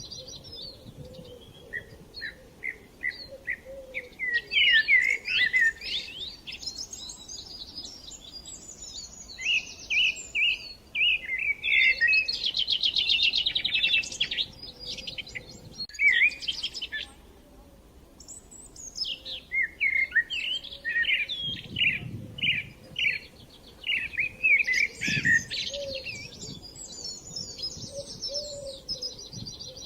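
Small songbirds chirping and twittering in many short calls, with bursts of rapid trills coming and going in waves.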